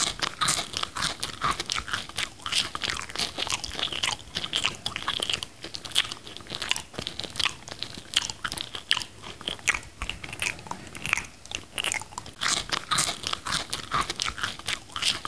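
Close-miked chewing and biting of mango slices: a continuous run of crunching clicks throughout.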